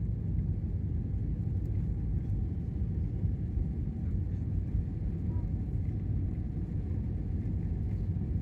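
Steady low rumble of a jet airliner's cabin in flight: engine and airflow noise heard from inside the cabin, unchanging throughout.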